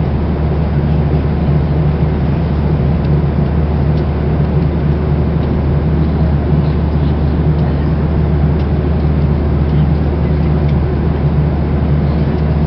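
Steady drone of an airliner cabin in flight, jet engine and airflow noise heard from inside the cabin, with a constant low hum.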